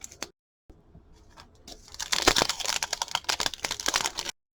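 Foil wrapper of a football trading card pack being torn open and crinkled: a few light clicks, then a dense crackling from about two seconds in that cuts off suddenly near the end.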